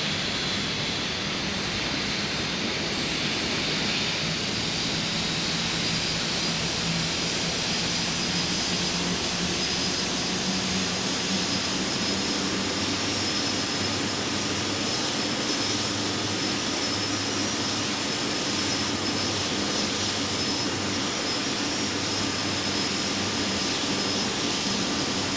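Airbus A320-214's CFM56 jet engines and airflow on final approach: a steady rush of noise with a thin, high, even whine.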